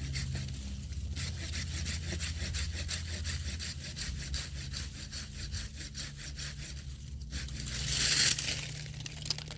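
Hand saw cutting wood in quick, regular strokes, with a louder rasp about eight seconds in.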